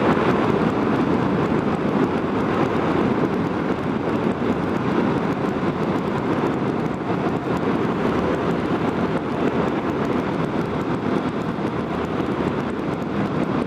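Motorcycle riding at highway speed: a steady rush of wind noise on the microphone mixed with engine and road noise.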